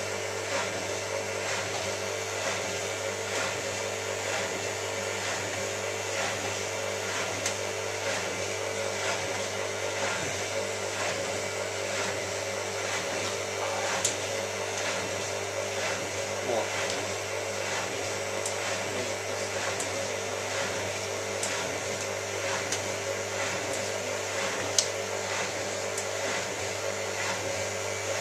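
Hotpoint 9534A washing machine running through its Cotton 85 wash: a steady motor hum with an evenly pulsing tone and light ticks, and a couple of sharper clicks.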